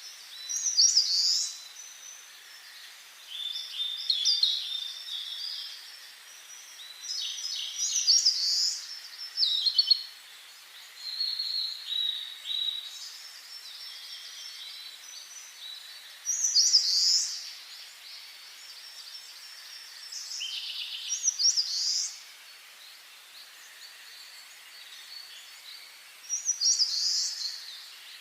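Songbirds singing in short phrases of high chirps and trills every few seconds, over a faint steady hiss.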